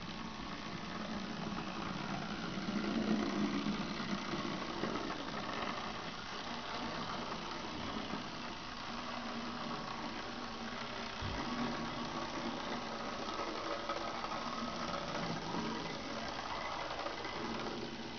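Battery-powered Minitrix N gauge model locomotive running on track under radio control: a steady whir from its small electric motor and gearing with wheel noise on the rails, gently rising and falling in loudness.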